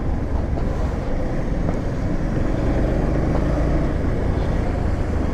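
Motorcycle engine running under way, with heavy wind rumble on the rider's microphone; a steady, dense noise.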